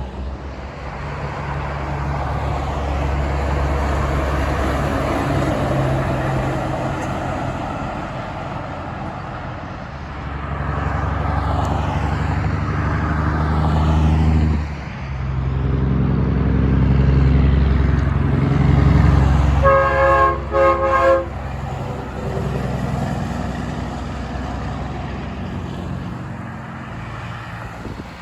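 Heavy trucks driving past with their engines running, the sound swelling and fading as each one goes by. About twenty seconds in, a truck's air horn sounds in a quick series of short blasts.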